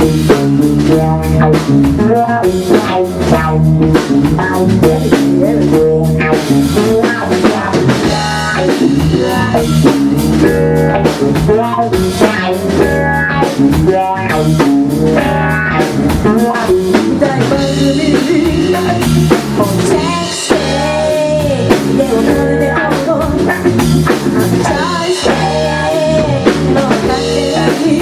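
Live rock band playing a song, with drum kit and guitar driving a steady beat.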